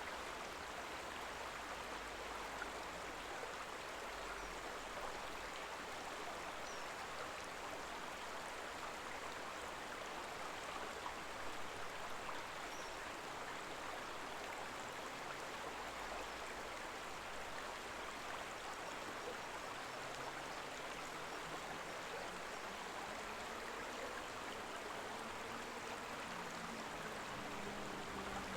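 Koma River babbling: a steady, even rush of stream water. A faint low hum, slowly rising in pitch, comes in over the last several seconds.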